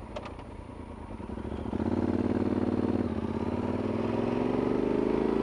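Yamaha Super Tenere XT1200Z's parallel-twin engine pulling away from low revs. It gets louder about two seconds in and the pitch climbs steadily as the bike accelerates, with a short dip near three seconds like a gear change.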